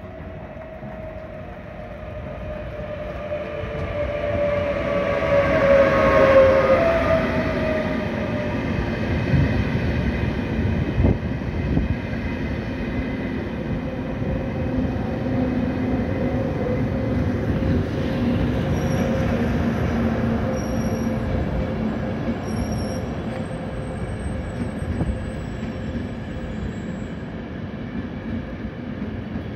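ÖBB Railjet train arriving: its electric locomotive passes with a whine that falls in pitch as it slows, loudest about six seconds in. Then the coaches roll slowly past with a steady rumble, and a few short high squeals come in the second half.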